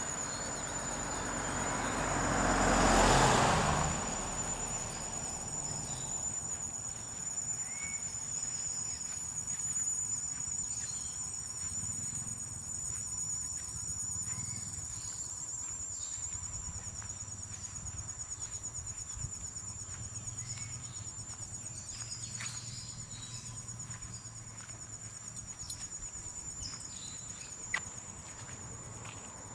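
Insects trilling in one steady, high continuous note. About three seconds in, a brief rushing sound swells and fades, louder than the insects.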